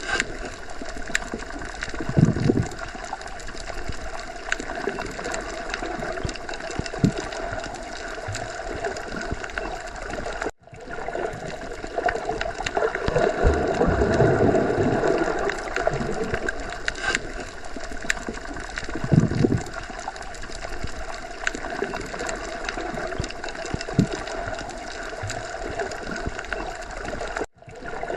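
Underwater sea ambience: continuous muffled gurgling and bubbling water with irregular low swells. It drops out briefly twice.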